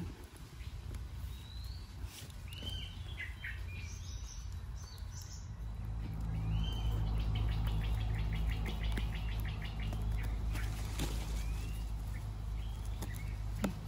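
Wild birds chirping and calling with short upward-gliding notes and a rapid trill partway through, over a low steady rumble that gets louder about halfway in.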